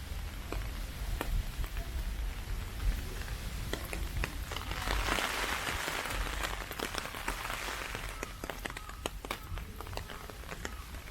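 Heavy typhoon rain: a steady hiss full of sharp, scattered drop ticks. The hiss swells for a few seconds around the middle and then eases off.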